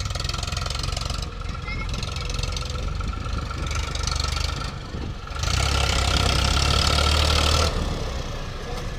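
Heavy diesel engine of earthmoving machinery running steadily, then revving up under load for about two seconds past the middle before settling back.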